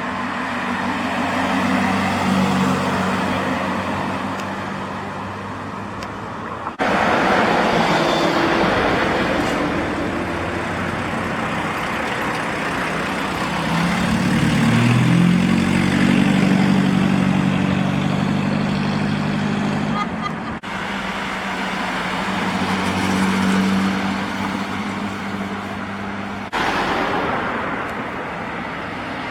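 Classic car engines running as the cars pull away and drive past, one engine revving up about halfway through. The sound changes abruptly three times.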